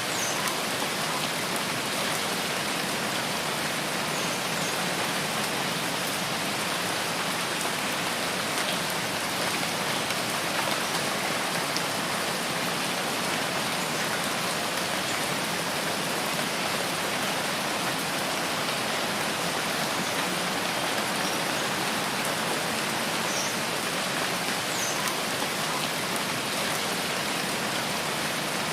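Steady rainfall in a rainforest: an even, unbroken hiss of rain falling on foliage and ground.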